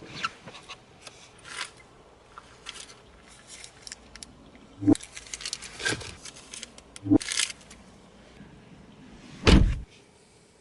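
Handling noises: scattered clicks and rustles with sharp knocks about five and seven seconds in, ending in a heavy thump near the end.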